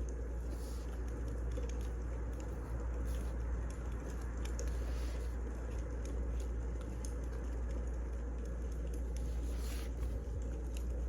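Wood fire crackling: irregular snaps and pops over a steady low rumble and hiss.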